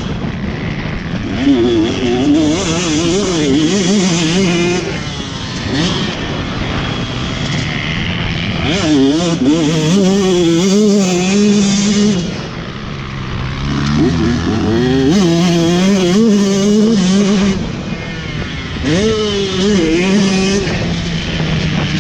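Motocross bike engine heard from an onboard camera, revving up hard four times and easing off in between, its pitch wavering as the throttle works over the track.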